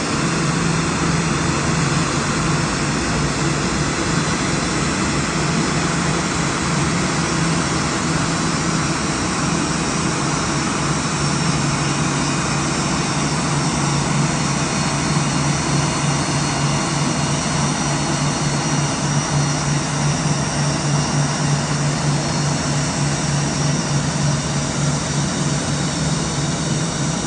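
Boeing 787-8 airliner's jet engines running steadily: an even rush of noise over a constant low drone, with no change in pitch or level.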